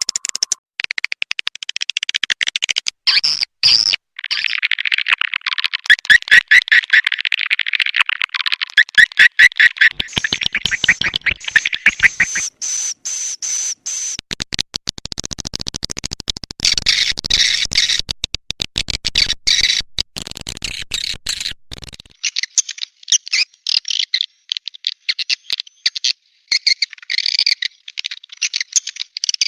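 Recorded swiftlet calls played as a lure for a swiftlet nesting house: dense, rapid high-pitched chirping and twittering, chopped by frequent abrupt cuts to silence. After about two-thirds of the way through, the calls become thinner, higher and sparser.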